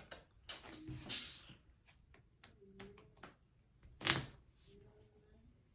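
Trading cards being handled and shuffled on a table: a few short brushing riffles, the loudest about four seconds in.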